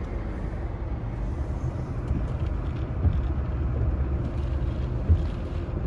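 Steady low rumble of a car driving, heard from inside the cabin, with a couple of light knocks about three and five seconds in.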